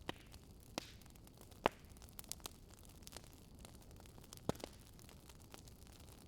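Wood fire crackling softly: scattered, irregular sharp pops and snaps over a faint steady hiss, the loudest pops about a second and a half in and past the four-second mark.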